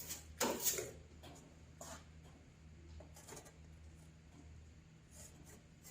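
Fiberglass body filler being scraped and spread over a car hood with a spreader: a quick cluster of short strokes about half a second in, then a few fainter strokes spaced out after. A low steady hum runs underneath.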